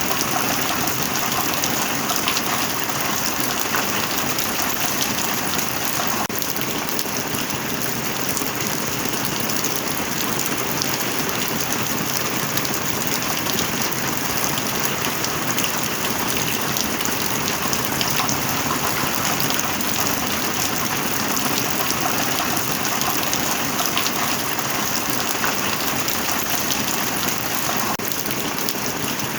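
Steady heavy rain: a dense, even hiss of falling rain with countless small drop impacts pattering through it.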